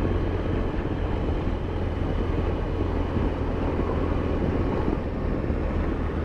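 Motorcycle engine running steadily at cruise, with road and wind noise on the rider's microphone.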